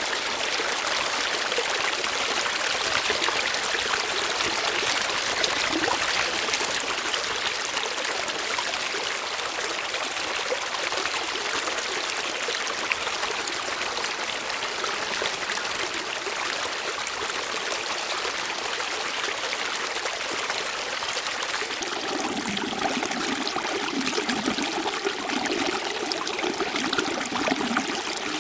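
Water flowing steadily with an even rushing hiss. About three-quarters of the way through, a deeper layer of moving water joins in.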